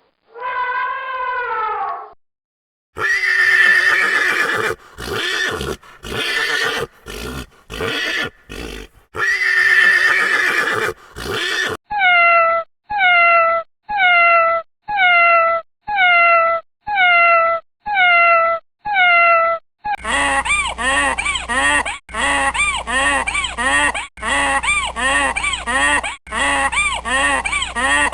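A run of separate animal recordings. It starts with a falling call and then a horse neighing several times. After that comes a short call repeated evenly about once a second, and from about two-thirds of the way in, a faster call repeated about twice a second.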